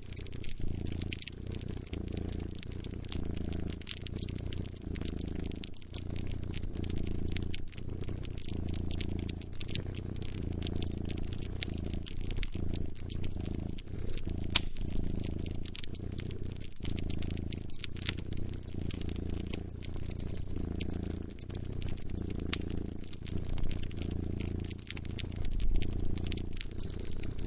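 Cat purring close up, a steady low rumble that swells and fades with each breath, over a wood fire crackling with scattered sharp pops.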